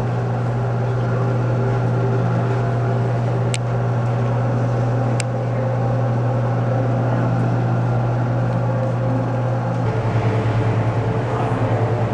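A loud, steady low hum, which turns into a rapid pulsing throb about ten seconds in, with two faint clicks in the first half.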